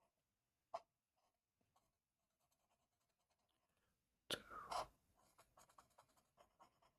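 Faint scratching of a drawing tool on paper, in quick short strokes, with a single click under a second in and a louder brief rustle or clatter about four and a half seconds in.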